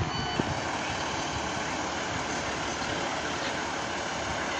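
Class 150 diesel multiple unit pulling away from the platform: a steady mix of engine and wheel noise, with a brief high squeal just at the start.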